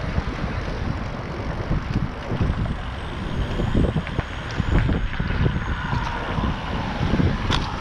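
Wind rushing on the microphone of a camera carried while cycling, with a steady, uneven low rumble.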